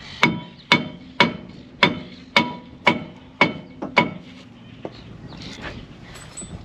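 A hammer striking metal eight times, about two blows a second, each blow leaving a short metallic ring; the blows stop about four seconds in.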